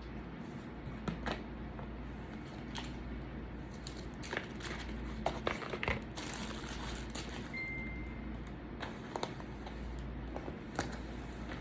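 Eating sounds: scattered small clicks and squishy mouth and utensil noises, with a stretch of crinkling, like food packaging, about six seconds in. A brief high tone sounds near eight seconds, and a steady low hum runs underneath.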